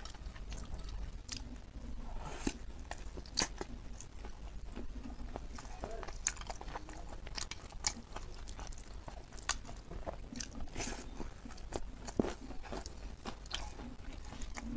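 Close-up chewing and biting of pork leg meat and skin: irregular wet clicks and smacks of the mouth.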